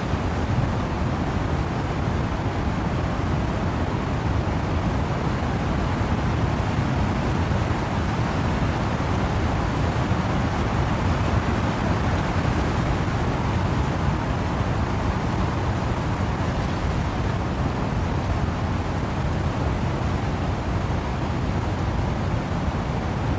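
Steady wind-driven rain with wind rushing through trees, a dense unbroken noise heaviest in the low rumble.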